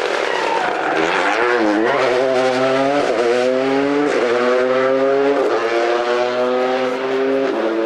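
Rally car engine pulling hard through the gears. The pitch climbs steadily and drops sharply at each of about five upshifts, then climbs again.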